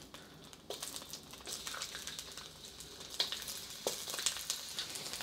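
Ginger sizzling and crackling in hot oil in a wok, with a few sharper ticks among the steady crackle.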